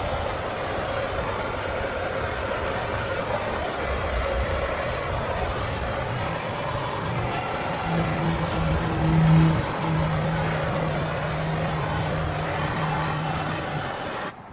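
Electric grinder running steadily. About halfway through a low steady hum rises over the motor noise, peaking briefly, and the sound cuts off suddenly near the end.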